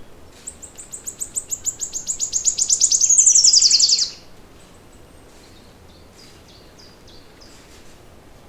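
A songbird singing a fast trill of about ten high notes a second that grows louder and ends abruptly about four seconds in. Fainter chirps from other birds follow.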